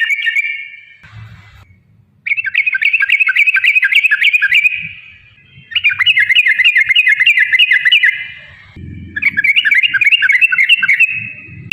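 Yellow-vented bulbul (trucukan) singing long, fast rolling runs of bubbly chattering notes, in four runs broken by short pauses.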